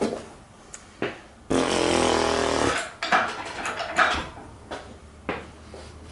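Metal clanks and knocks as a hanging engine is worked into place, with one loud grating scrape lasting about a second, a second and a half in.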